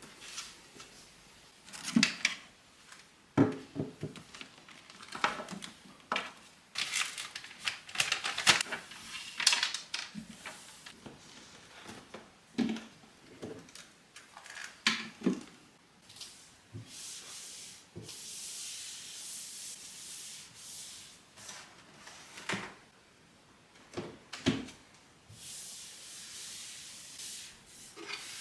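Household handling noises: scattered knocks and clatters of objects being set down and moved, then two stretches of steady, high-pitched hiss like wiping or scrubbing a surface.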